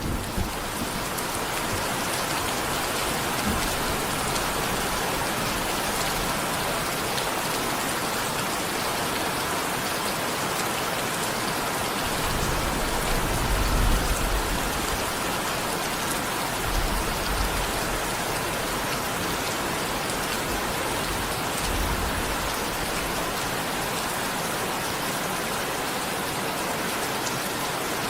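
Steady rain falling on surfaces, a dense, even patter. A deep low rumble swells up near the middle, with smaller ones a little later.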